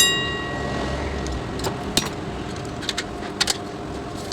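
A sharp strike that rings on for about half a second, followed by a few light clicks and taps from tools and parts being handled, over a steady background noise.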